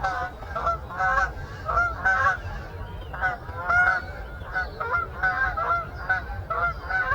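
A flock of birds calling, many short pitched calls in quick succession with several voices overlapping, over a steady low rumble.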